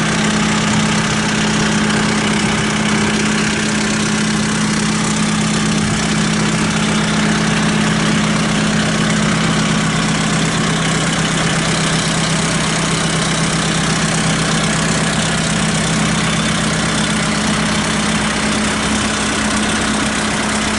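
Kubota M7060 tractor's four-cylinder diesel engine idling steadily.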